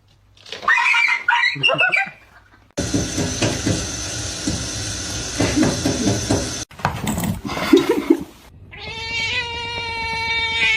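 Cats meowing across several short clips cut together, with abrupt changes of sound between them.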